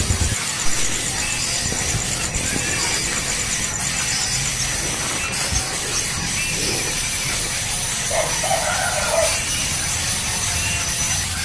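Short bird calls, a few faint ones and a clearer group about eight and a half seconds in, over a steady high hiss.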